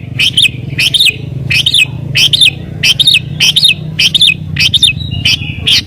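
Sooty-headed bulbul (kutilang) calling in full, agitated voice, the excited rival-pressing calling that bird keepers call gacor: a rapid run of short, sharp, rising-and-falling chirps, about two a second, over a low steady hum.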